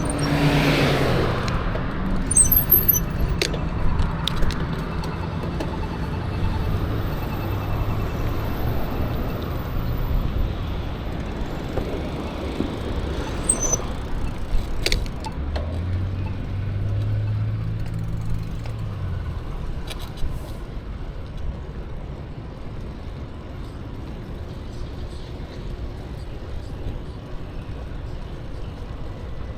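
Road traffic heard from a moving bicycle: steady wind and tyre noise, with motor vehicles passing and a low engine drone that swells twice, the second time about halfway through. A few sharp clicks are scattered through it.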